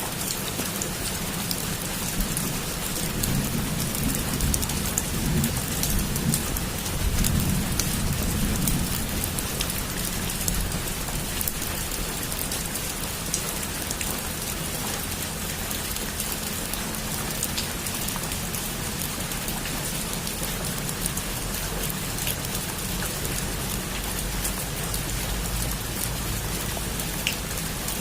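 Heavy rain falling in a steady, even hiss, with a low rumble of thunder swelling from about three seconds in and fading by about nine seconds.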